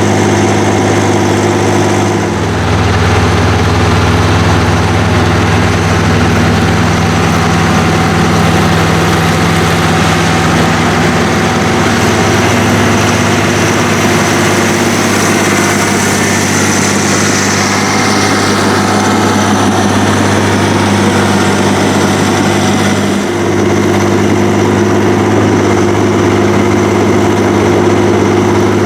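Heavy diesel tractor engines running steadily under plowing load. The engine note shifts and grows slightly louder about two seconds in, and dips briefly near the end before picking up again.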